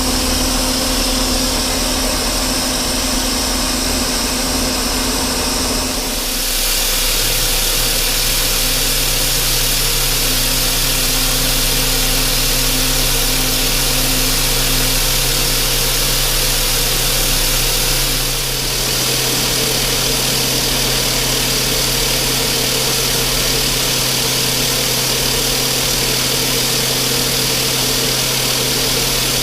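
Metal lathe running steadily with a motor hum and a high hiss of mist coolant; the sound shifts about six seconds in and again at about eighteen seconds.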